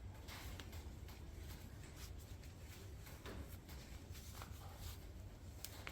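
Faint hand-work noises from reassembling an ATV CV axle boot: a few light clicks and soft rubbing sounds, over a steady low hum.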